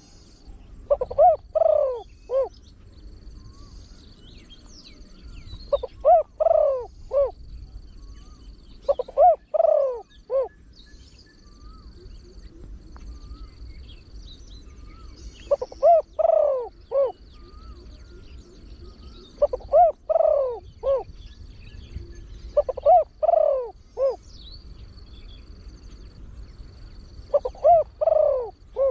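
Spotted dove (นกเขาใหญ่) cooing. It sings seven short phrases of three or four deep coos, one every three to six seconds. The bird is a trained, deep-voiced singer. Faint high chirping runs in the background.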